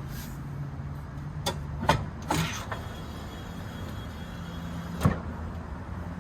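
A steady low hum with a handful of sharp clicks and knocks, four of them in the first three seconds and one more about five seconds in.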